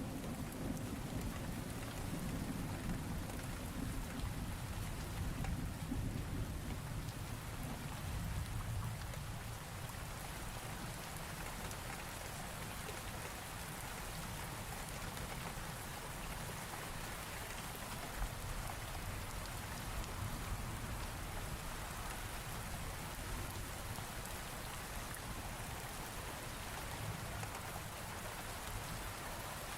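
Steady heavy rain falling, with a low roll of thunder rumbling through the first several seconds and dying away, leaving only the rain.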